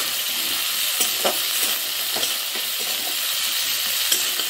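Sliced onions and green chillies sizzling in hot oil in a kadai, stirred with a metal spatula that scrapes the pan now and then.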